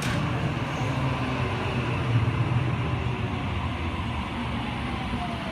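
Sydney Trains Waratah (A set) electric train standing at the platform, its onboard equipment giving a steady hum, with a faint falling whine in the last couple of seconds.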